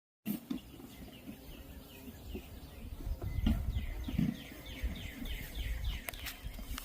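A songbird singing a long series of quick, repeated down-slurred whistled notes, about three a second, over a low rumble.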